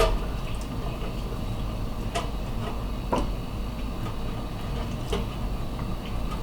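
A few light clicks and taps, one to two seconds apart, over a steady low hum, as a pastry brush works olive oil onto frozen chicken tenderloins on a wire oven rack.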